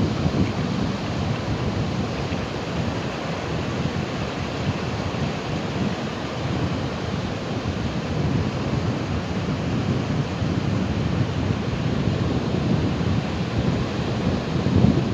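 Ocean surf: waves breaking and washing in as a steady rushing noise with a deep rumble.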